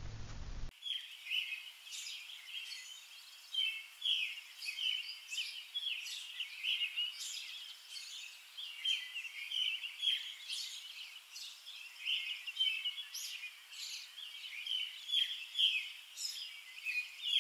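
Songbirds chirping: many short, high chirps overlapping, a few each second, starting abruptly just under a second in.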